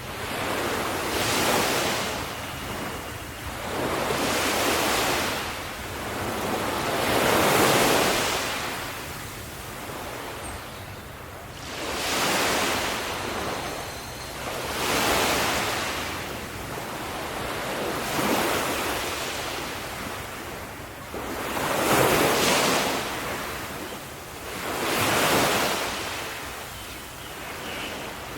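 Ocean waves washing in, the rush of surf swelling and fading roughly every three seconds.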